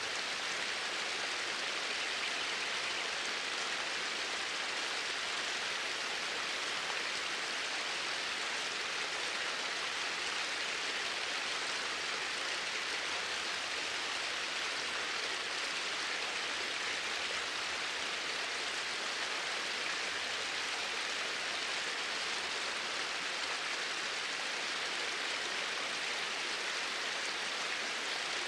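Flowing water: a steady, even rush that never changes.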